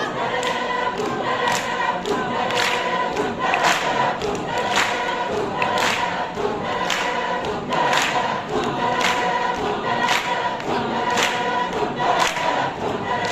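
Choir singing, with a sharp percussive beat about twice a second.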